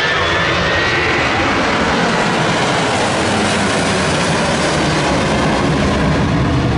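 Boeing 757's Rolls-Royce RB211-535E4B turbofan engines at high power on a low pass, a loud steady jet roar. A whine gliding in pitch fades out about a second in.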